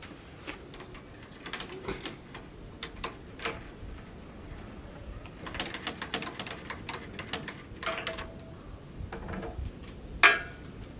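Irregular metallic clicks and knocks from hands working on the old stationary engine before it runs, densest about halfway through, with one louder clank near the end.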